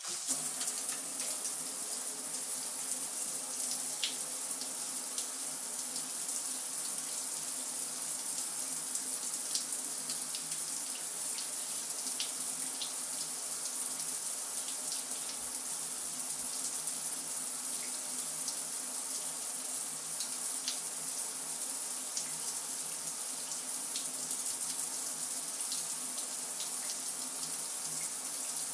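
Shower running steadily, water spraying down and splashing on the floor, with a faint patter of separate drops. It starts up right at the beginning as the tap is opened.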